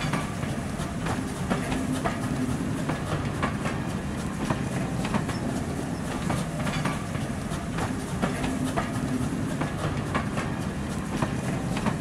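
Train carriages rolling past: a steady low rumble with irregular clicks of the wheels over rail joints.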